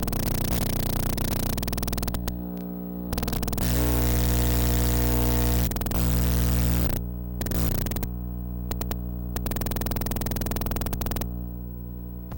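Electromagnetic pickup coil on a DIY analog synth turning nearby electrical fields into sound: a loud buzzing mains-type hum with crackling static. The high, hissy part drops away and comes back abruptly several times, leaving only the low hum.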